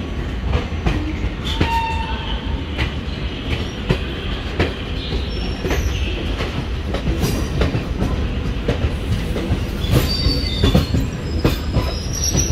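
Indian passenger train heard from aboard: a steady rumble with the wheels clacking over rail joints. From about ten seconds in, high-pitched wheel and brake squeals start as the train slows, braking after someone pulled the emergency chain.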